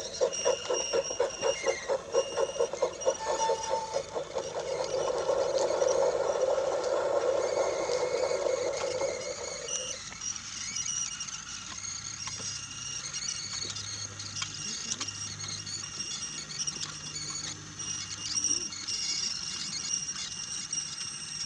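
Brio toy train rolling on wooden track: a rhythmic clatter of about four knocks a second at first, then a steady rumble that cuts off suddenly about ten seconds in, leaving faint crackling and a low hum.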